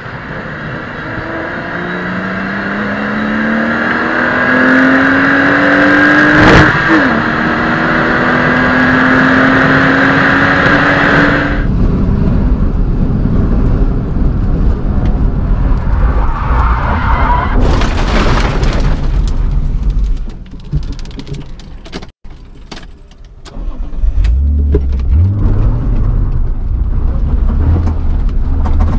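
A car engine revving up under hard acceleration, its pitch climbing, with a gear change about six seconds in and then a second climb. From about twelve seconds in it is on-board sound inside a BMW E36 cabin at speed: engine drone with tyre and road rumble, dropping away briefly a little after twenty seconds.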